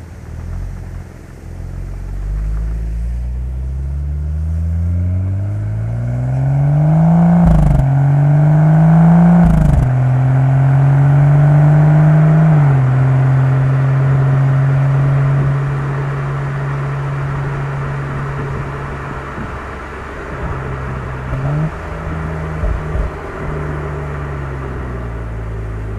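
BMW M135i's turbocharged inline-six accelerating hard through the gears: the engine note climbs, drops sharply at two quick upshifts about 8 and 10 seconds in, each with a short crack, then climbs again to a third shift and settles into a long steady pull. Near the end the note dips and stutters briefly as the throttle is lifted and reapplied.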